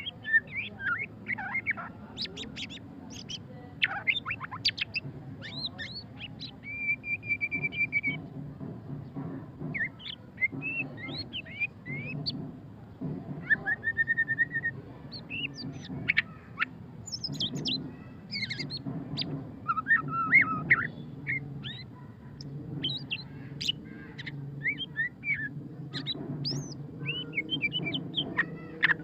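White-rumped shama singing a long, varied song: quick rising and falling whistles, fast twittering runs and a few short held notes, with hardly a pause. A faint low background hum runs underneath.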